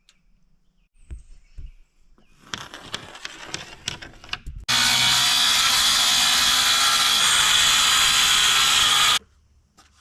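A power saw cuts through a sheet of T1-11 plywood siding, starting abruptly about halfway in, running steadily for about four and a half seconds and then cutting off. Before it come a few knocks and rattles as the board is handled.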